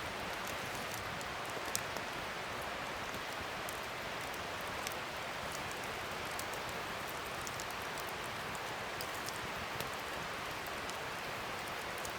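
Wood fire burning: a steady hiss with scattered small crackles and pops at irregular moments.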